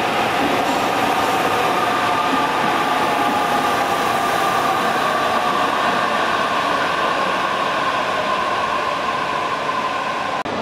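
HB-E300 series hybrid train running along a station platform as it comes in to stop, with a steady rolling noise and a motor whine that falls slowly in pitch as it slows.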